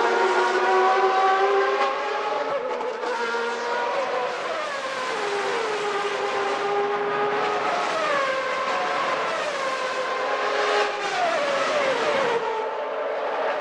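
Naturally aspirated 1991 Formula One engines running at high revs, their pitch dropping in steps a few times, as on downshifts.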